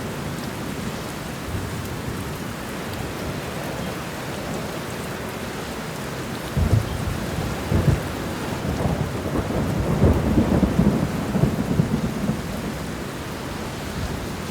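Heavy rain falling steadily. About halfway through, thunder rolls in as a run of low rumbling surges over about six seconds, then eases back to rain alone.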